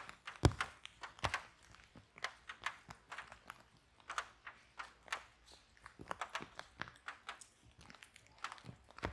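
Wood fire crackling in a fireplace: irregular pops and snaps of burning logs, the sharpest about half a second in.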